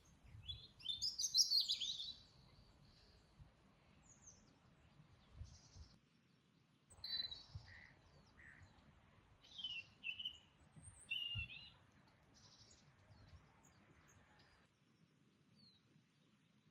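Songbirds singing: a quick run of high chirping notes in the first two seconds, then several shorter chirps and phrases spread through the rest, over faint outdoor background noise.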